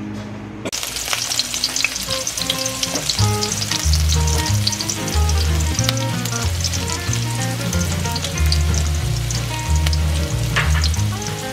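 Chopped red onion and garlic sizzling and crackling in hot oil in a wok. Background music with a stepped bass line comes in about three seconds in.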